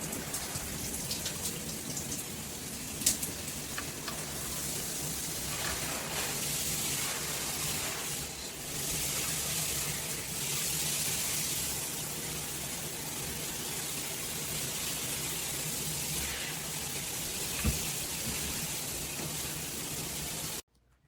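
Water spraying steadily from a handheld filtered shower head, a continuous hiss of running shower water, with two short sharp knocks. The spray cuts off suddenly near the end.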